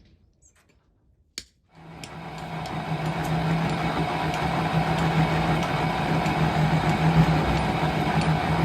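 A click, then an engine starts about two seconds in and settles into a steady run with a low hum and faint regular ticking.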